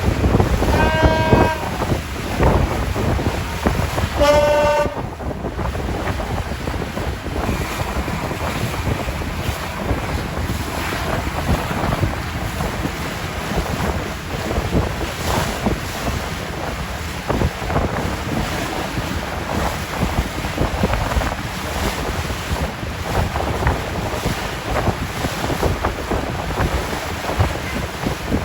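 Wind buffeting the microphone over the rush of sea water aboard a boat under way. Near the start there are two short, high, pitched tones about three seconds apart.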